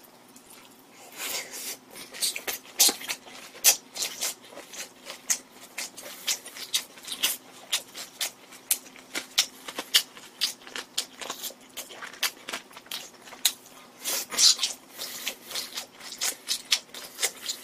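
A person chewing a big mouthful of boiled pork wrapped in cabbage kimchi, close to the microphone: a steady run of short, irregular wet crunches and clicks, a few a second.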